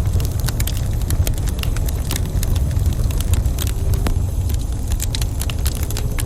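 Wood fire burning in a fireplace: frequent sharp crackles and pops over a steady low rumble.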